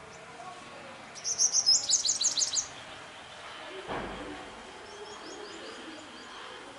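A small bird calling: a fast, loud run of a dozen or so sharp, high chirps lasting about a second and a half. Later comes a fainter, softer series of chirps. A dull low thump sounds about four seconds in.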